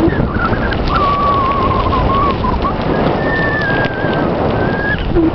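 Wind buffeting the microphone together with bicycle tyre noise while riding, a loud crackling rush. A thin wavering whistle sounds about a second in and again around three seconds.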